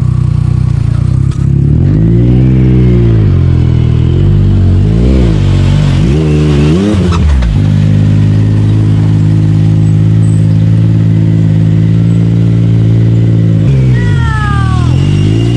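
Side-by-side UTV engine revved up and down three times, then held at a steady fast idle. Near the end the revs drop, with a short falling whine.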